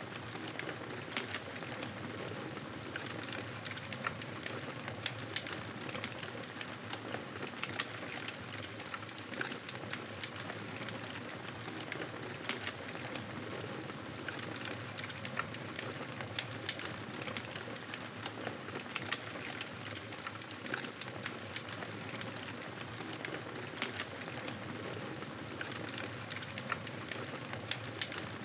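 Wood campfire burning, with a steady crackle of frequent small pops and snaps over a soft, even hiss.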